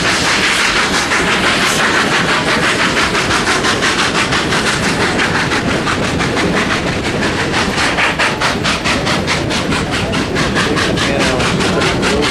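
Narrow-gauge steam train running along the line, heard from aboard, with a fast, even beat of about four to five strokes a second over steady rumbling noise.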